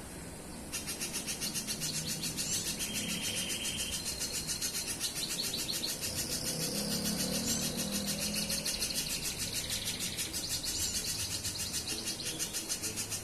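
A spiderhunter (banana spiderhunter, 'pijantung pisang') calling steadily, giving a rapid, even run of short high chips, with a faint low rumble underneath.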